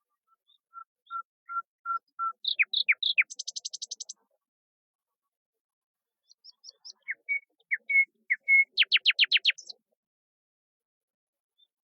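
A songbird singing two song phrases. Each starts with a series of short clear whistled notes, then goes into quick downward-sliding notes; the first phrase ends in a fast high trill, and the second begins about six seconds in.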